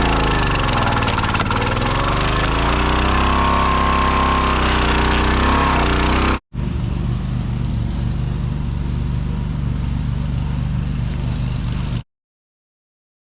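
Log splitter's Kohler 6.5 HP gas engine running. Its note drops and comes back up in the first few seconds. After a sudden cut about six seconds in it runs at a steady speed, then stops abruptly about twelve seconds in.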